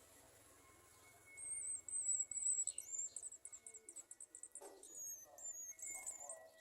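Garden sunbird calling: high, thin chirps starting a little over a second in, running into a fast trill of rapid repeated notes, with a few higher stepped notes near the end.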